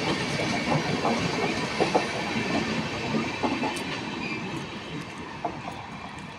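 Passing passenger coaches' wheels clattering over the rail joints with a steady rumble, fading as the last coach, a luggage-and-brake van, goes by and the train moves away.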